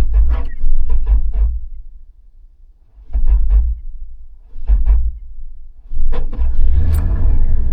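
A 1994 Toyota Land Cruiser FZJ-80's 4.5-litre inline-six being cranked on a jump start: the starter turns it over in four short bursts with pauses between, and on the last, longest attempt near the end the engine catches.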